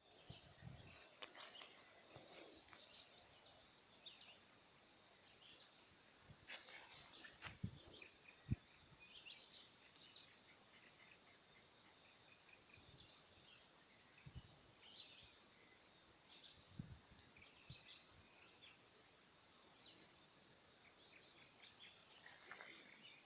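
Faint outdoor ambience dominated by a steady, high-pitched insect trill, with faint scattered chirps and a few short clicks.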